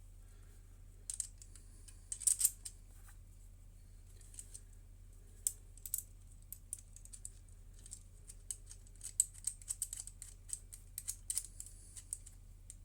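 Irregular light clicks and taps of small metal carburettor parts and hand tools being handled and fitted during a Dellorto carburettor reassembly. The clicks come faster and more often in the second half, over a steady low hum.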